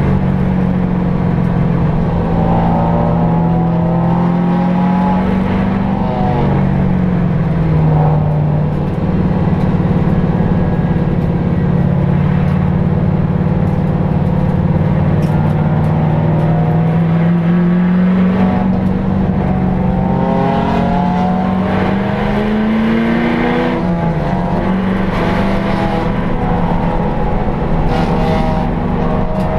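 HSV Clubsport V8 race car's engine heard from inside its cabin, running at a moderate, fairly steady pace. The revs drop about a quarter of the way in, build back slowly, then climb and drop again about four-fifths of the way through.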